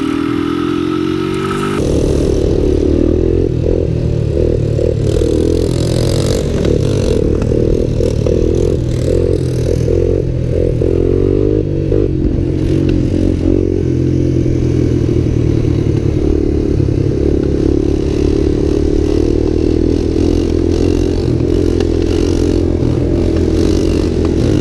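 Motorcycle engine revving and accelerating, its pitch climbing and dropping again and again, then holding steadier through the second half.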